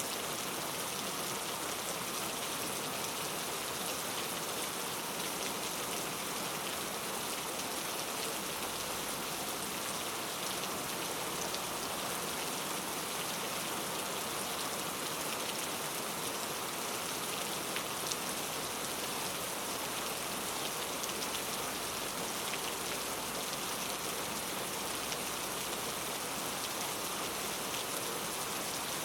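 Steady rain falling in a rainforest, an even hiss of rainfall with scattered individual drop ticks.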